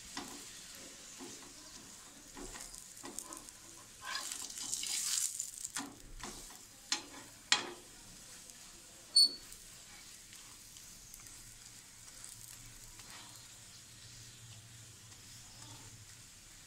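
Paratha frying in oil on a flat griddle pan: a quiet sizzle that swells for a second or so about four seconds in. A metal spatula scrapes and taps against the pan a few times in the first half, with one sharp tap about nine seconds in, after which only a faint sizzle remains.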